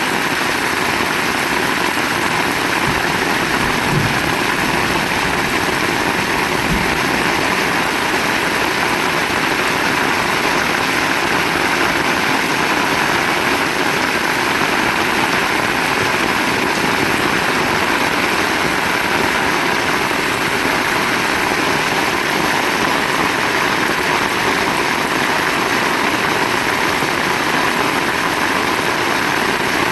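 Heavy rain pouring steadily, a dense even hiss, with two brief low thumps about 4 and 7 seconds in.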